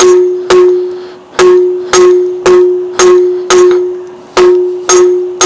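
Hand hammer striking hot square steel bar held over the anvil's edge, about two blows a second, each blow leaving the anvil ringing with one clear tone that fades: fullering the end of the bar out into a taper.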